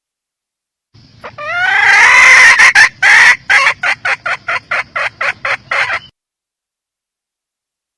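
Hen red junglefowl cackling: a few rising notes build into a loud drawn-out call, then break into a run of short clucks, about four a second, that stops abruptly.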